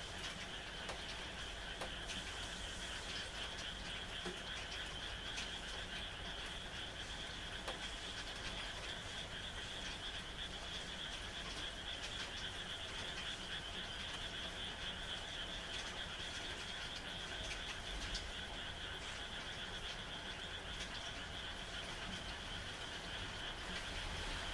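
A chorus of frogs calling at night, a dense steady trilling of many overlapping voices, with scattered drops of rain ticking through it.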